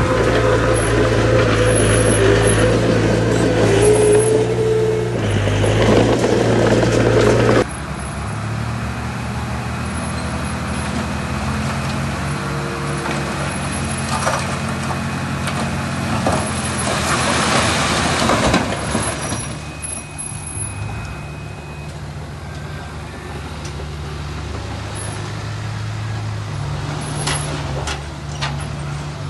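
Diesel engines of heavy earthmoving machinery (bulldozer and dump trucks) running with a steady low drone. The loudest engine noise drops away abruptly about 7–8 seconds in. A broad rushing noise swells around 17 seconds and fades by about 20 seconds.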